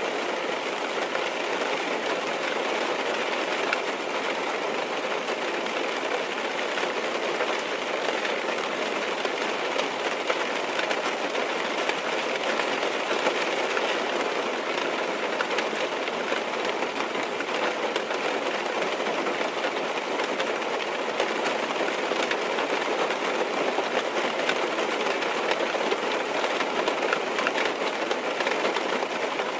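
Rain falling on a car's roof and windows, heard from inside the cabin: a steady, dense patter of many small drops.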